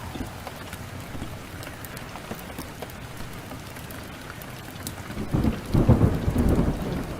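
Steady downpour of rain. About five seconds in, a low rumble of thunder swells up and is still rolling at the end.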